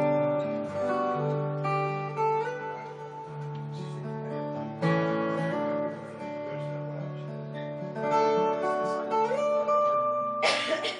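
Acoustic guitar being played, with chords ringing and changing every second or so. A short burst of hiss comes near the end.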